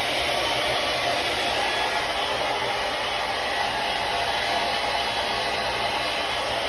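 Remington hair dryer running steadily, blowing with an even, constant whoosh.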